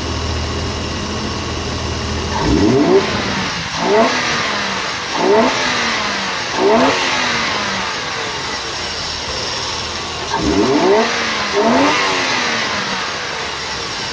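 Toyota 2JZ-GTE inline-six idling and blipped six times: four quick revs about a second and a half apart, a pause, then two more, each rising and falling back to idle. Its crank pulley harmonic balancer has failed and is delaminating.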